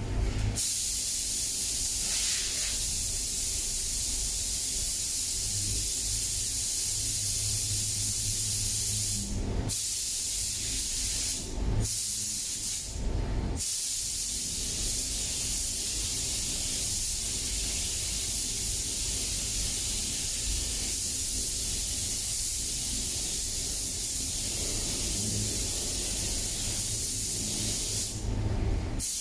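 Compressed-air paint spray gun hissing steadily as colour coat is sprayed onto car panels. The hiss stops briefly a few times as the trigger is released between passes, and a low hum runs underneath.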